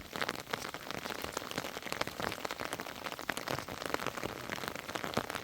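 Rain falling steadily, with many separate drops hitting a nearby surface in a dense, irregular stream of sharp ticks.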